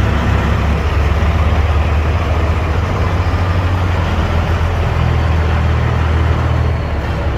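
Peterbilt heavy diesel truck engine running steadily at a raised idle, driving the dump trailer's hydraulic hoist as the box is raised.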